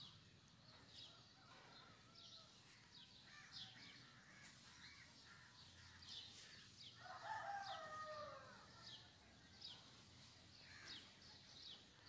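Faint bird chirps, short and falling, repeating about once or twice a second. About seven seconds in, a longer, louder wavering call lasts a second and a half.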